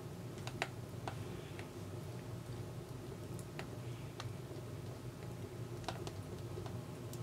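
Firewood crackling in a Swedish Contura wood stove: about a dozen irregular sharp pops and clicks over a low steady rumble.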